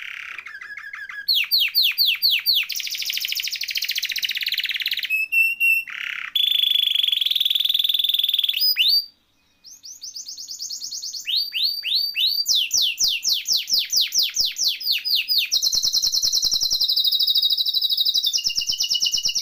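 Domestic canary singing a long, varied song of fast repeated sweeping notes and sustained rolling trills, with a short pause about halfway through.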